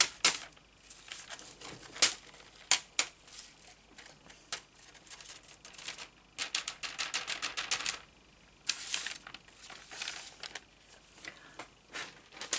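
Handling craft supplies on a desk: scattered sharp clicks and taps, then fast runs of crinkly clicking and rustling, as loose gold leaf flakes are put back into their box.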